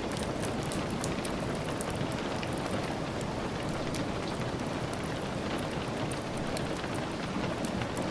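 Steady rain, an even hiss, with many small sharp ticks and crackles scattered through it.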